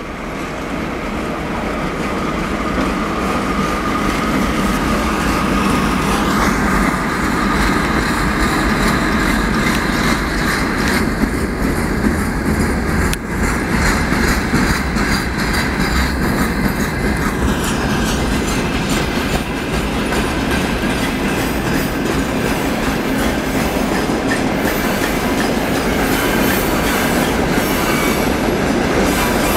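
Freight train of boxcars rolling past: a steady rumble of wheels on rails with a rapid, even clatter, building up over the first few seconds and then holding level.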